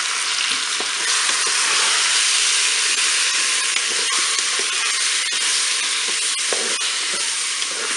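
Boudins blancs and apple pieces sizzling in butter in a Cookeo multicooker pot on its browning setting, with a steady hiss. A wooden spatula stirring them makes occasional light taps and scrapes against the pot.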